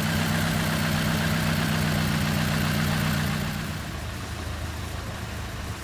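2003 Nissan Altima's 2.5-litre four-cylinder engine idling steadily, running again now that a new camshaft position sensor has restored its spark. About three and a half seconds in, the sound drops and becomes quieter.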